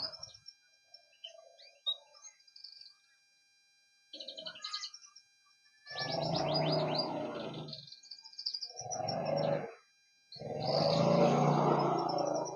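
Male canary singing in loud phrases with fast trills, three long bursts in the second half, with short chirps between.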